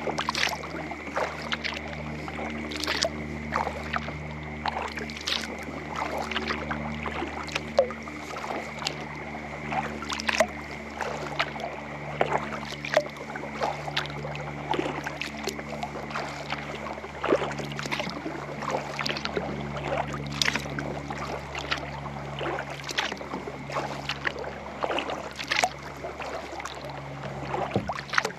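Kayak paddle strokes in lake water: blades dipping and dripping, with frequent small irregular splashes and drips over a steady low hum.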